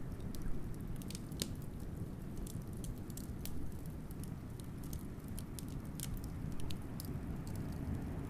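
Wood fire crackling, with irregular sharp pops and snaps over a steady low rumble of wind.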